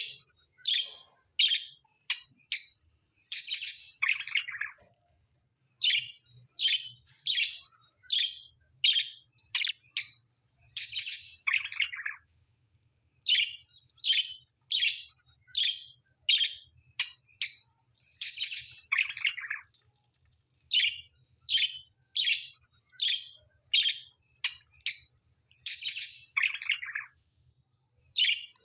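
A bird chirping in quick runs of short, sharp, high-pitched calls, about two a second. Every seven or eight seconds a longer call comes that falls in pitch, and the whole pattern repeats evenly.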